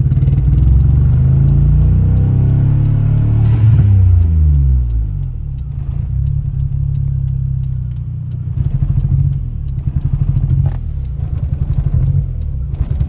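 Suzuki Alto Works' turbocharged F6A three-cylinder engine running rough and sputtering under throttle; its pitch climbs and then sinks away about four seconds in as it fails to pull. It is misfiring and can't get into boost, which the owner puts down to water sprayed around the turbo.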